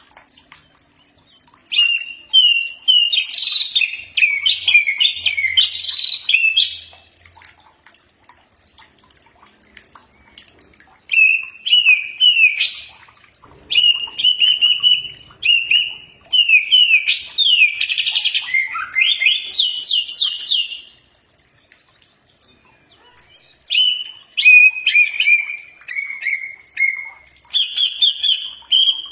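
Green leafbird (cucak ijo) singing: three long bursts of quick, varied chirps, trills and whistled notes, separated by pauses of a few seconds.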